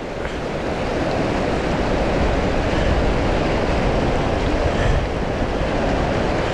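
Steady rush of whitewater from a creek rapid.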